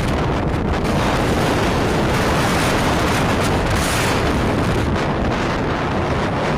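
Strong wind buffeting the microphone, a loud, steady rushing roar with faint crackles through it.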